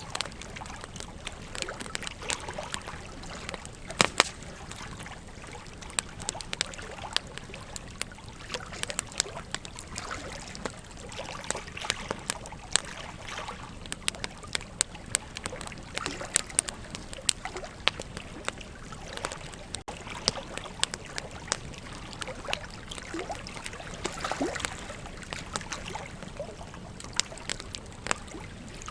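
Wood campfire crackling, with frequent irregular sharp pops and snaps, over the steady rush of a flowing river.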